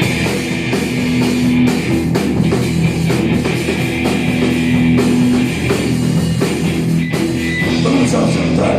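A rock band plays an instrumental intro: guitar over a drum kit, with no vocals yet.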